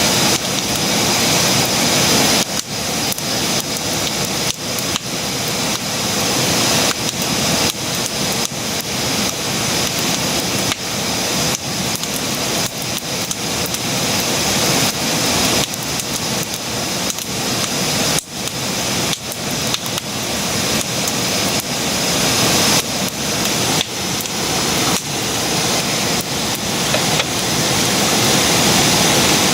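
Wood campfire burning, with a steady hiss and dense, irregular crackling and popping.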